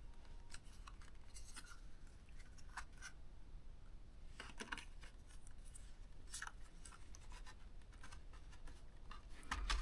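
Faint scraping and small scattered clicks of a laptop hard drive being slid and pushed into the drive bay of a ThinkPad T430, plastic and metal rubbing as it is worked into place.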